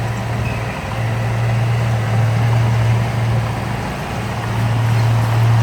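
Heavy diesel engine of earthmoving machinery running steadily with a low, even hum, its loudness swelling and easing slightly.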